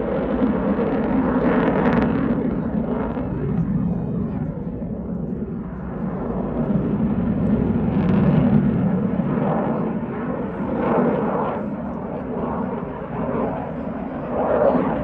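Dassault Rafale C fighter's twin jet engines in a flying display: a continuous loud jet noise that swells about two seconds in and again about eight seconds in, then eases off, as the aircraft passes.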